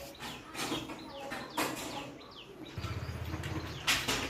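Birds chirping in short, repeated falling calls, mixed with sharp clicks and rustles. A low buzz sounds for about a second near the end.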